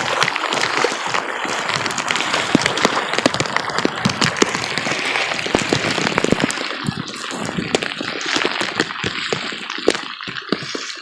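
Heavy rain falling: a dense hiss with many sharp drop hits. It eases a little about seven seconds in.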